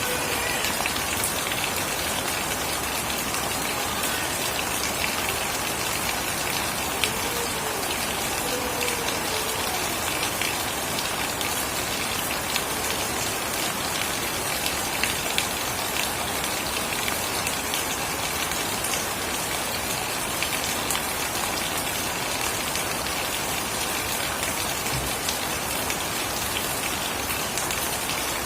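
Steady rain falling on surfaces, with scattered louder drips. A faint short whistle-like glide comes through about eight seconds in.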